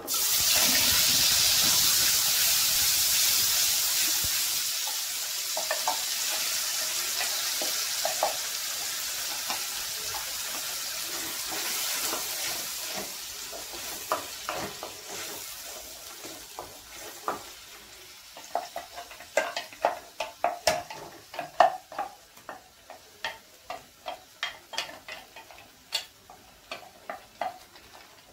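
Wet ground onion-tomato masala paste dropped into hot oil in a kadai: a loud sizzle that starts at once and dies down slowly over about fifteen seconds. After that, a spatula stirring and scraping the paste, with a run of sharp knocks against the pan near the end.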